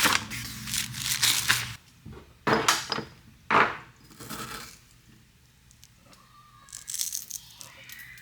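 Food packaging crinkling and being torn open, with two sharp rips about two and a half and three and a half seconds in, then softer crinkling near the end.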